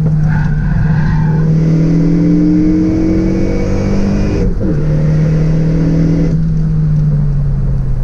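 Renault Megane RS 265's turbocharged 2.0-litre four-cylinder pulling hard under load with intake and exhaust sound, engine speed rising steadily. About four and a half seconds in the revs drop sharply at an upshift, then climb again in the next gear.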